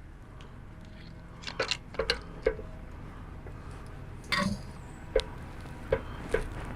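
A scatter of small clicks and taps, with a brief squelching handling sound about four seconds in: the gear-oil measuring cup and filling tools being handled while the final drive is topped up with oil.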